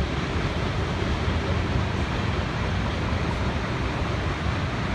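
Steady rumbling, rushing noise of a moving vehicle, with wind buffeting the microphone.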